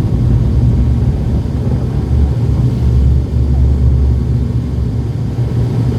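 Engines of a small passenger plane heard from inside the cabin: a loud, steady low rumble, heavier for a couple of seconds in the middle.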